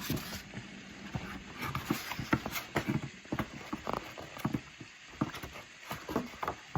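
Irregular light taps and clicks from a hardcover picture book being handled, with fingers and pages knocking against it.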